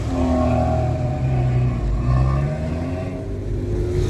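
Car engine running, its pitch slowly rising and falling as it accelerates and eases off.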